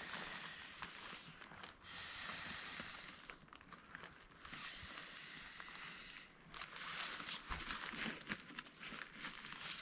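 Faint rustling and crinkling in uneven stretches, with a cluster of small clicks and taps near the end.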